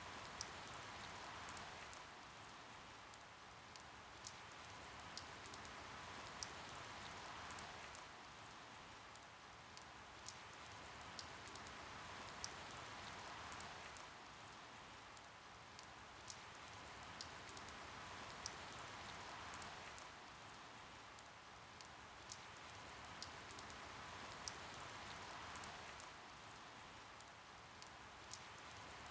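Faint, steady rainfall hiss with scattered sharp drip ticks. It gently swells and eases every few seconds.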